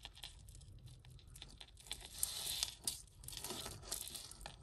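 Hands untangling jewellery, a multi-strand piece wrapped around a chunky chain: faint rustling with scattered light clicks, busiest about halfway through.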